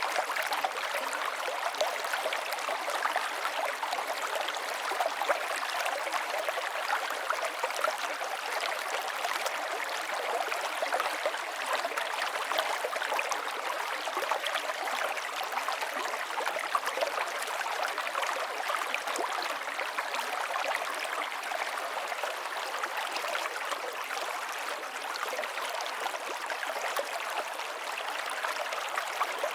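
River water flowing and burbling over rocks, a steady rushing with fine splashing.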